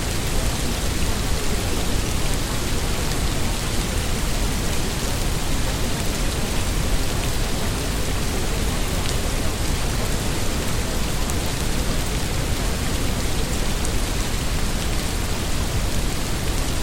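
Steady rain: a dense, even hiss with occasional faint drop ticks.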